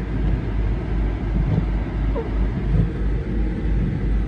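2009 Jeep Commander's 5.7 Hemi V8 and tyres heard while driving: a steady low rumble of engine and road noise.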